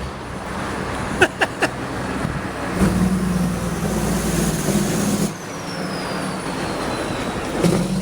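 Street traffic: a few short sharp clicks, then a road vehicle's engine running with a steady hum and hiss for a couple of seconds before it cuts off suddenly.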